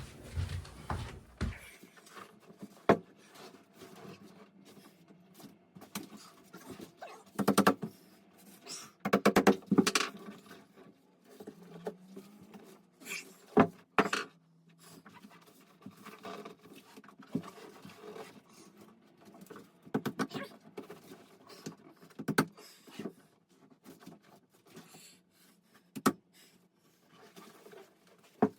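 Scattered clicks, knocks and short bursts of rustling from hands handling tools and material at a workbench, with a few louder rustles near the middle.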